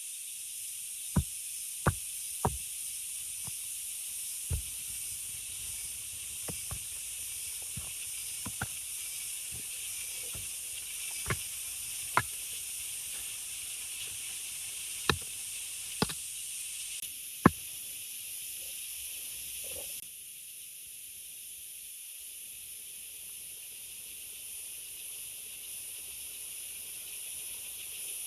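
Steady hiss of heavy rain falling, with about ten irregular sharp taps or knocks spread through the first two-thirds.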